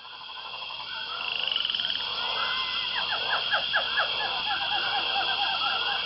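A chorus of frogs calling: a dense steady high trill with many short repeated croaks over it, including a quick run of sharp falling calls midway. It fades in over the first second or so.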